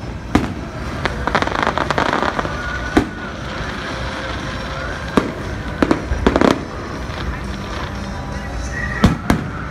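Aerial fireworks going off: separate sharp booms every one to three seconds, some in quick pairs, with a stretch of dense crackling about one and a half seconds in.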